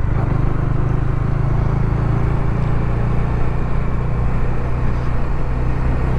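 Motorcycle riding noise heard from a lavalier mic inside a full-face helmet with the visor closed: a steady engine hum under wind and road rumble.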